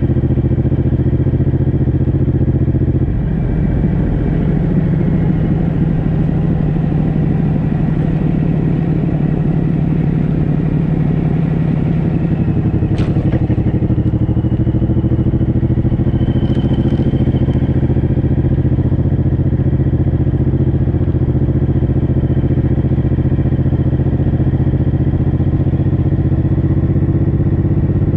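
Suzuki M109R's 1800 cc V-twin engine running steadily while riding at low road speed, heard from the bike itself. The engine note changes about three seconds in and again near the middle, where there is also a single sharp click.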